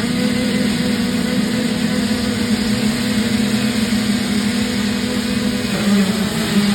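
Dirt bike engine running at a steady pitch, which wavers briefly near the end.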